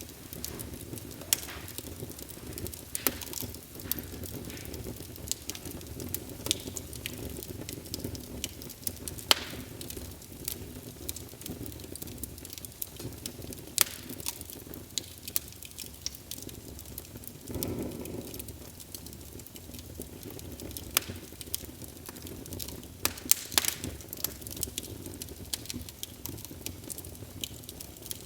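Wood fire burning in a fireplace: a steady low rush of flames with irregular sharp crackles and pops, and a brief louder flare about two-thirds of the way through.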